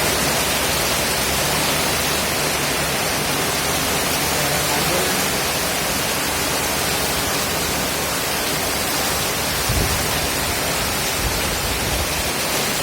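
Heavy tropical downpour and rushing floodwater, a steady dense hiss with no let-up.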